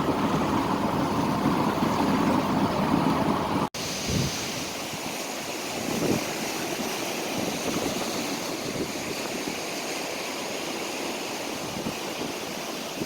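Steady low rumble for the first few seconds, then a sudden cut to a steady hiss of wind and water, like waves or surf, with a few soft thumps.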